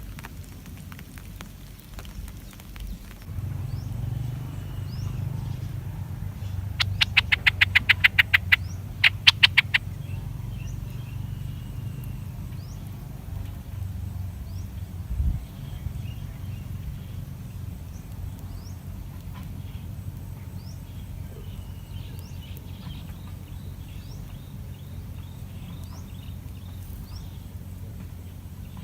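Outdoor wildlife sound: birds chirping with a steady low rumble underneath. About seven seconds in comes a loud rapid rattling call of quick repeated pulses, then a shorter one a second later.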